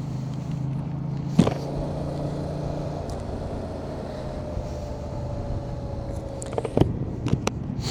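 Motorcycle engine running steadily while cruising, with a faint whine that slowly drops in pitch. A few brief knocks, one about a second and a half in and a couple near the end.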